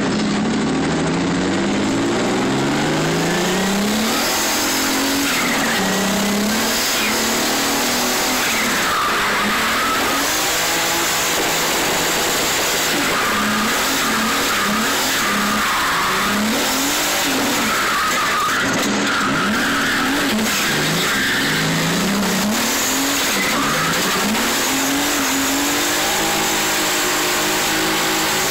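Turbocharged BMW E36 325i's straight-six engine revving up and down over and over while the car drifts, heard from inside the cabin, with the tyres squealing.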